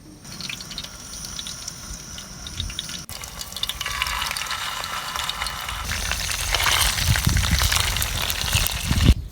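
Water running and splashing, growing louder over the second half and cut off abruptly near the end.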